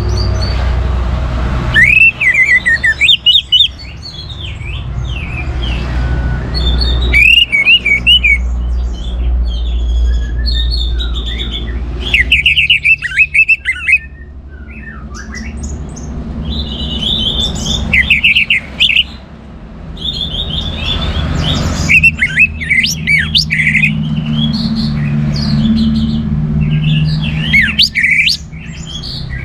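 Orange-headed thrush singing in loud phrases of rapid, sweeping whistled notes, a new phrase every few seconds, over a steady low hum.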